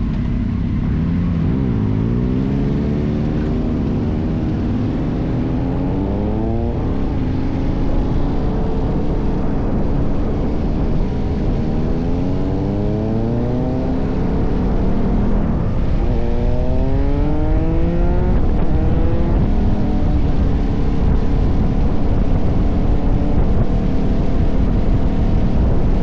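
KTM 1190 Adventure's V-twin engine accelerating up through the gears: its pitch rises three times, dropping back at each gear change, then holds steady at cruise for the last few seconds, over a constant rush of wind and road noise.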